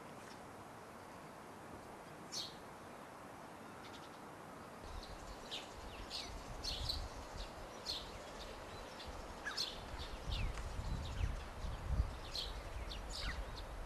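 Small birds chirping: short, high, falling chirps, one early and then many from about five seconds in, over a steady hiss. A low rumble comes in at about the same time and grows louder near the end.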